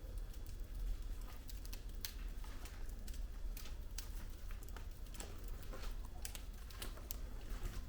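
Wood fire burning in a fireplace, the logs crackling: irregular sharp snaps and pops, several a second, over a low steady rumble.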